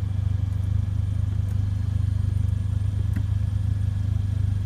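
Steady low hum of an idling vehicle engine, with a faint click about three seconds in.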